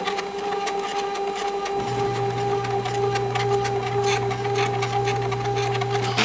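MakerBot 3D printer running a print: its stepper motors give a steady whine at two pitches over rapid small ticks. A lower steady hum joins about two seconds in.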